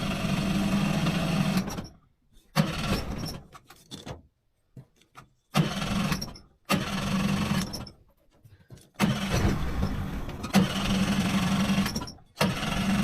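Electric starter motor cranking a Mariner 30 hp two-cylinder outboard in a series of bursts of one to three seconds, with short pauses between them. The engine turns over but does not catch and run.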